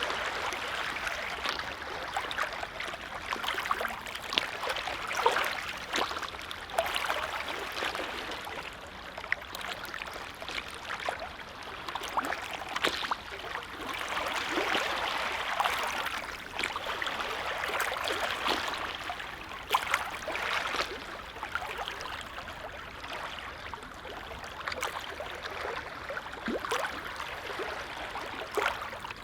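Small lake waves lapping and splashing at the water's edge: a steady wash that swells and fades every few seconds, dotted with many short little splashes.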